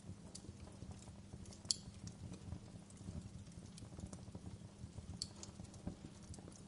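Wood fire crackling steadily over a low rumble, with small irregular clicks and two sharper pops, one about two seconds in and one about five seconds in.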